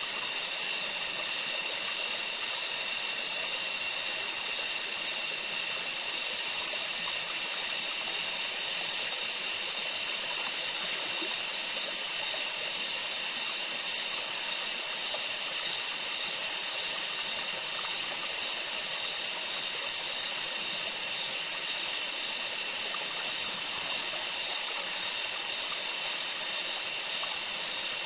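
Steady, high-pitched chorus of insects in the rainforest, an unbroken shrill hiss.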